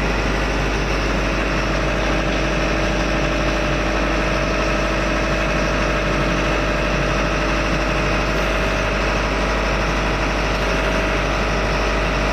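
Steady drone of a running diesel engine in a ship's engine room, an even, unchanging hum throughout.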